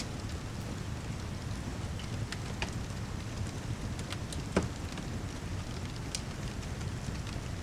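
Rain mixed with a crackling fireplace: a steady low rush with scattered sharp pops, the loudest about four and a half seconds in.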